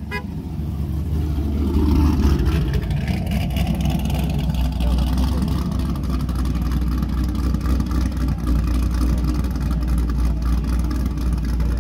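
A car engine running loud with a deep rumble, swelling up about two seconds in and then holding steady.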